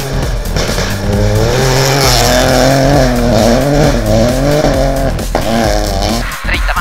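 Rally car engine revving hard on a gravel stage, its pitch climbing and dropping several times as it accelerates and shifts, with music underneath.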